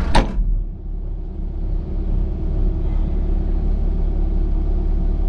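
Diesel engine of a heavy earthmoving machine running steadily, a low drone, just after a brief sharp click at the start.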